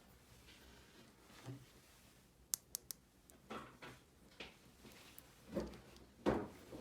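Small plastic toy pieces being handled: three quick sharp clicks, then a few soft knocks and rustles.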